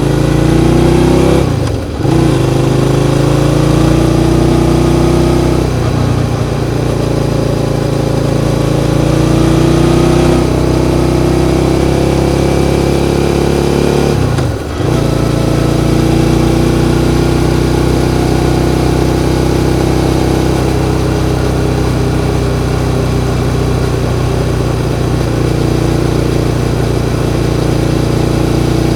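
Suzuki SV650's 90-degree V-twin engine running under throttle. Its note climbs at first, dips briefly about two seconds in and again about halfway through, then holds steady.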